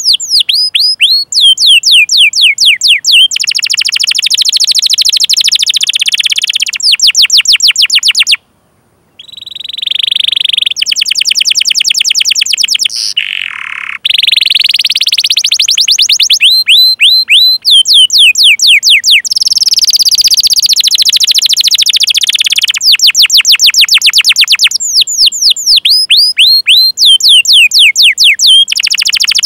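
Domestic canary singing loudly: runs of quick downward-sliding 'cuit cuit' chirps alternating with fast rolling trills, broken by a brief pause about eight seconds in.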